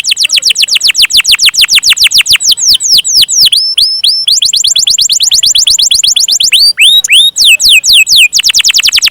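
Domestic canary singing a long rolling trill of rapid falling whistled notes, about nine a second, breaking around the middle into slower swooping whistles and then rolling again near the end.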